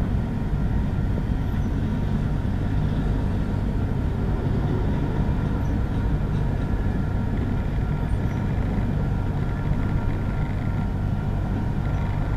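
Union Pacific freight cars rolling past: a steady low rumble of steel wheels on the rails.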